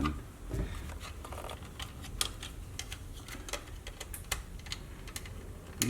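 Small, irregular plastic clicks and scrapes as a screwdriver pries at the snap-fit clips of a Sony WM-B18 Walkman's plastic case.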